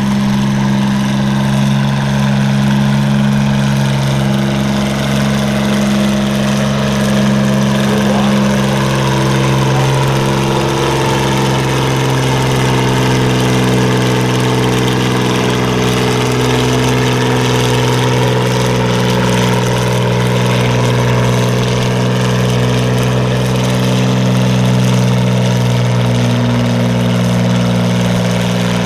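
John Deere 4010 diesel tractor's six-cylinder engine running steadily at high throttle as it pulls the sled down the track, its pitch shifting slightly about halfway through.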